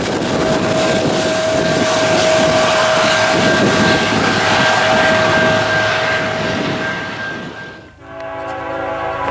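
Diesel freight train running close by with its air horn sounding steady tones over the rumble of the train. About eight seconds in the sound cuts, and a multi-note locomotive horn chord follows, quieter.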